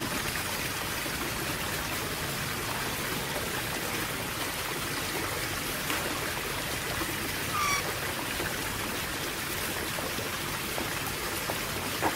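Steady running water, like a stream, with one short bird chirp a little past halfway.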